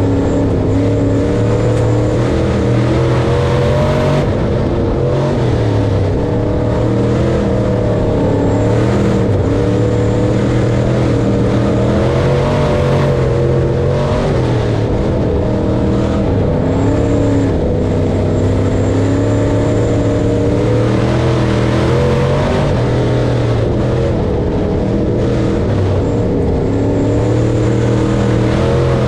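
Corn harvesting machine's engine running steadily under load, its pitch wavering slightly up and down.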